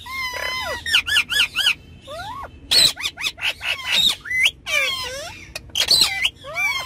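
Ringneck parrots calling: a rapid run of whistled chatter gliding up and down in pitch, broken by three or four loud, shrill screeches.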